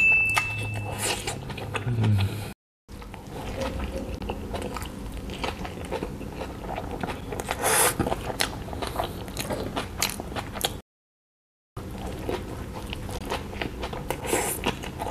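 Close-miked biting and chewing of a soft burger bun loaded with beef, cheese, coleslaw and sauce: wet, squishy mouth noises with small crunches, broken twice by brief dropouts to silence. A short high ringing tone sounds at the very start.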